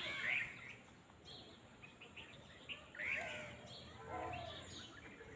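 Birds chirping and calling in short rising and falling notes, loudest at the very start and again about three seconds in, over faint steady outdoor noise.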